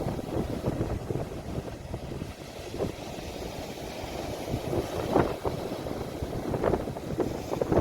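Sea waves washing in a low, rough rush, recorded on a phone with wind buffeting the microphone, with a few brief louder surges about five and seven seconds in.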